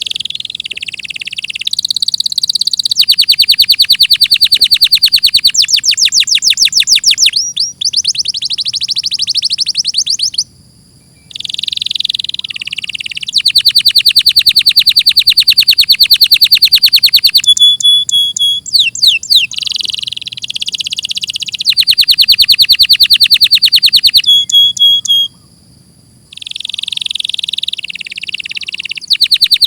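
Domestic canary singing: phrase after phrase of rapid trills, each a fast run of repeated notes held for one to four seconds before switching to a new note, with two brief pauses.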